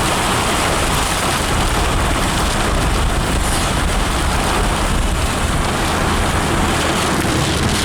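Steady noise of a car driving in heavy rain, heard from inside the cabin: tyre and road noise mixed with rain on the car.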